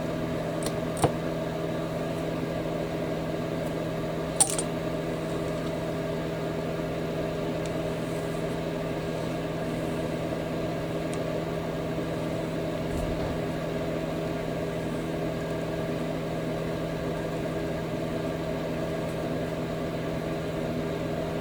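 Steady electrical hum running under a few light clicks of small plastic model-kit parts being handled and fitted, two close together about a second in and one at about four and a half seconds.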